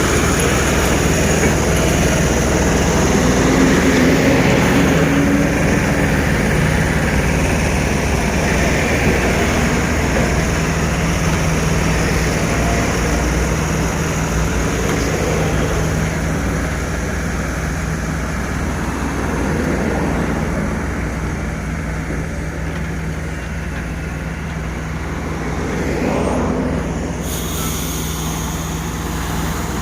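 Vehicle engines running steadily amid road traffic noise, with a couple of swells as vehicles pass.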